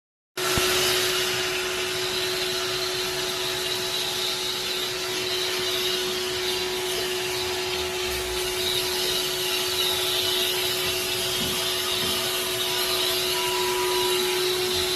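A motor-driven cleaning machine running steadily, with a continuous hiss over a steady hum, starting abruptly right at the beginning.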